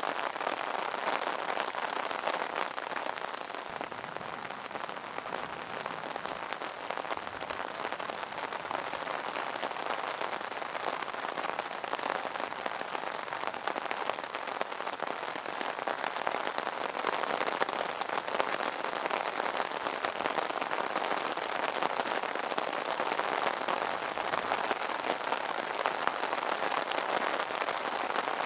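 Rain pattering steadily on an umbrella canopy, a dense even drumming of drops.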